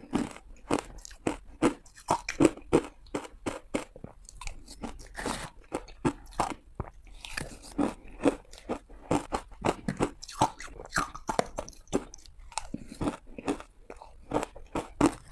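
Close-up bites into frozen ice and crunching chews, a rapid irregular run of sharp cracks several times a second with short pauses between bites.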